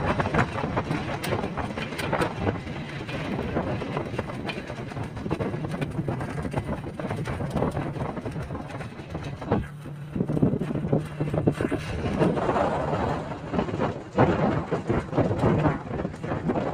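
A vehicle engine running steadily under a continuous rush of road and wind noise on the microphone, with scattered small knocks and rattles.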